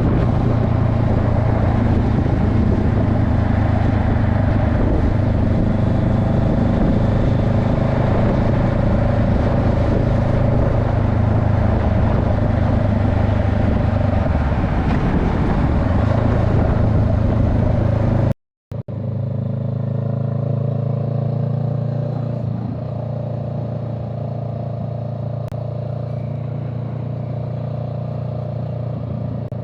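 A vehicle's engine running steadily while driving, with heavy wind and road rush over it. After an abrupt cut about two-thirds of the way in, the engine continues quieter and with less rush, rising briefly in pitch just after.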